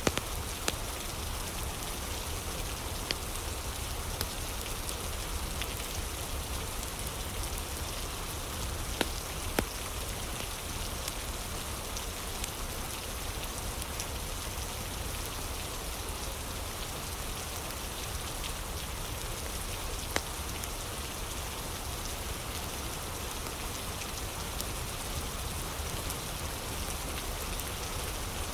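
Steady rain ambience with a few sharp crackles from a wood fire scattered through it.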